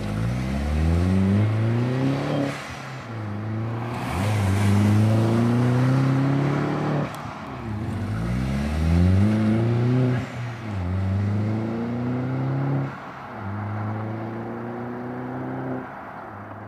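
Mini Cooper S fitted with an aftermarket VIP Custom Parts exhaust, its engine note rising in pitch and then dropping back, about five times over, before fading near the end.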